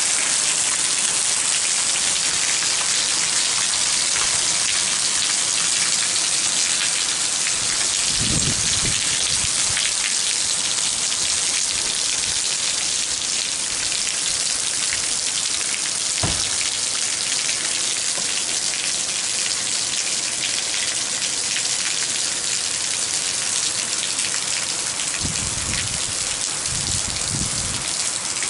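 Heavy rain falling steadily on grass, paving and soil, an even dense hiss. There are a few brief low thumps about eight seconds in and again near the end.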